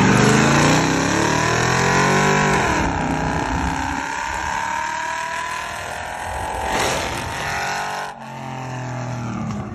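Engine accelerating hard in a drag race from a standing start, heard from inside one of the racing vehicles with wind and road noise. The engine note climbs, falls back at a gear change about three seconds in, climbs again and drops once more near the end.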